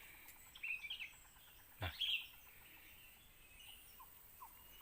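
Faint bird calls: a few short high chirps, then from about four seconds in a run of short, evenly spaced, falling notes, the start of a coucal (burung bubut) calling. A single sharp click comes just before two seconds.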